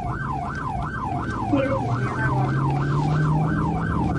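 Police car siren in a fast yelp, rising and falling about three times a second, over a low steady engine hum.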